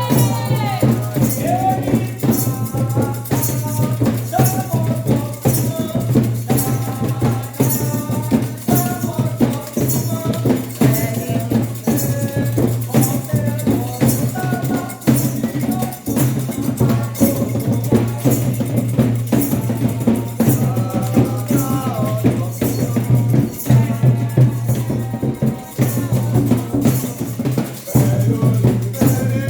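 Candomblé ceremonial music: voices singing over drums and a rattle keeping an even, steady beat.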